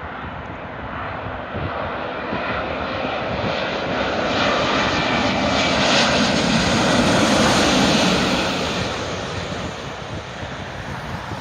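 Airbus A350-900 jet airliner with Rolls-Royce Trent XWB engines passing by on landing, its engine roar growing louder to a peak about seven seconds in and then fading.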